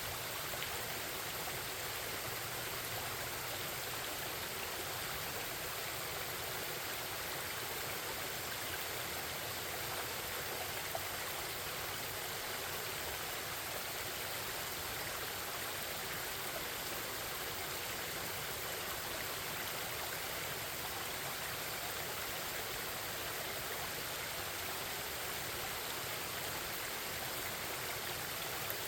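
Forest stream babbling: a steady rush of flowing water that does not change in level.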